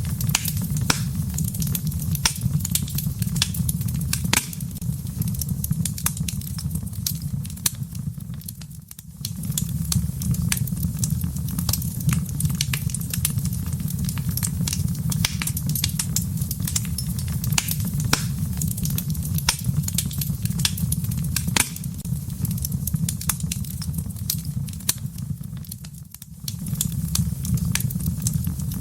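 Wood fire burning in a fireplace: many sharp crackles and pops over a steady low rumble of the flames, which dips briefly twice.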